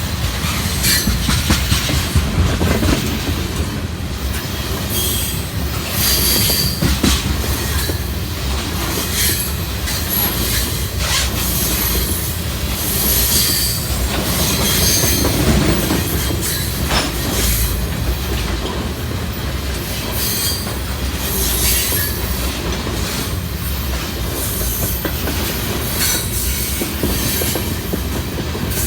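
Freight train of tank cars rolling past: a steady low rumble of wheels on rail, with clicks over rail joints and occasional brief high-pitched wheel squeal.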